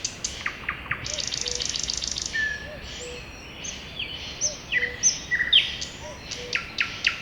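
Several songbirds singing in a spring forest, with overlapping whistles and chirps. About a second in, one bird gives a rapid trill of evenly repeated notes lasting over a second.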